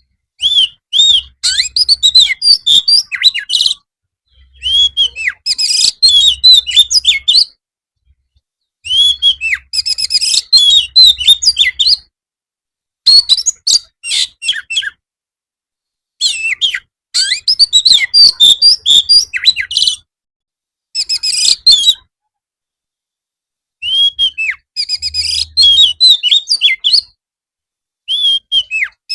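Oriental magpie-robin in full song: bursts of rapid whistles, slurred notes and chirps, each one to four seconds long, broken by short silent gaps, about eight bursts in all.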